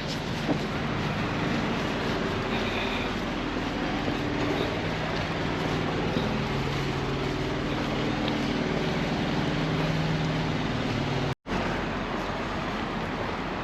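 Steady vehicle running noise, engine hum and road noise, with the low engine drone shifting slightly in pitch. The sound cuts out completely for a moment about eleven seconds in.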